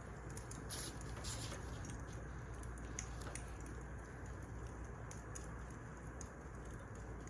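Wood fire crackling: scattered small pops and clicks over a steady low rumble.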